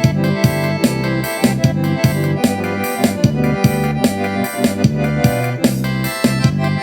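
Instrumental forró-style music led by a sanfona (accordion) over a steady drum beat and bass line.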